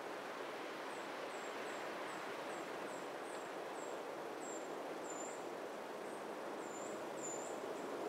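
Steady outdoor background noise with a small songbird calling over it in a run of short, very high chirps, about two a second, from about a second in.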